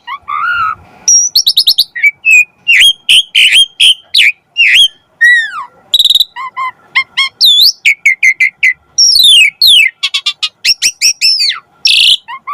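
Asian pied starling singing a long, loud, varied song: clear whistles, rising and falling sweeps, rapid trills and a few harsh chattering notes strung together with hardly a pause.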